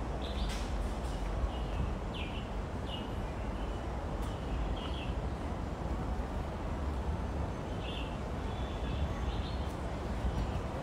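Bird chirps: short high notes, about eight of them, at irregular intervals over a steady low rumble of outdoor ambience.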